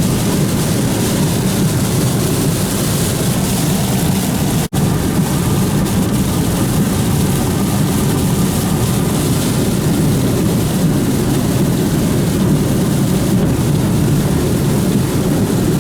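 Steady engine and road noise of a vehicle heard from inside while driving, with a brief gap in the sound a little under five seconds in.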